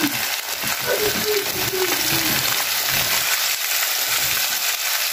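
Chicken wings, onion and carrot sizzling steadily in an oiled frying pan, stirred with a wooden spatula.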